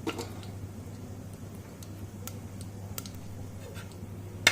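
Whole cinnamon and cloves frying in hot groundnut oil in a pressure cooker: a faint sizzle with scattered small ticks and pops as the spices start to splutter, and a sharp click near the end.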